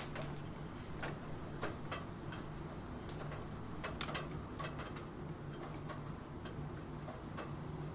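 Computer keyboard keys clacking in irregular runs of typing, over a steady background of rain.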